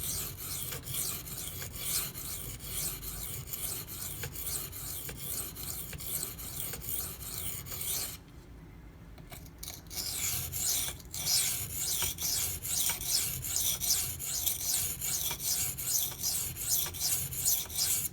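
Maxamet steel knife blade scraped back and forth across a wet 240-grit silicon carbide whetstone in a steady run of rasping strokes, grinding the edge back to remove a chip. The strokes pause for about two seconds near the middle.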